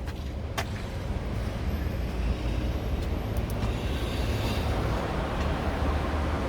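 Steady outdoor street noise: a low, uneven rumble under a hiss, with a faint click about half a second in.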